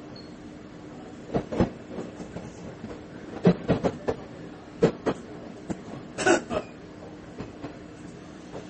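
Inside a diesel railcar running on the JR Banetsu East Line: a steady engine and running hum, with irregular sharp clunks, often in pairs, as the wheels pass over rail joints and points.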